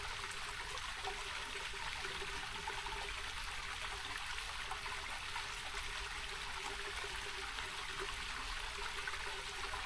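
Small rocky mountain creek running over rocks, a steady trickling rush of water.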